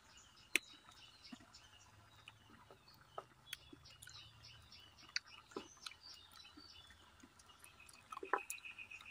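A person chewing and biting ripe jackfruit bulbs, with scattered small mouth clicks. Birds call faintly in the background.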